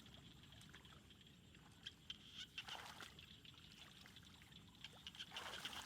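Faint splashing and trickling of shallow water as hands work through it, with two louder sloshes, about two and a half seconds in and near the end.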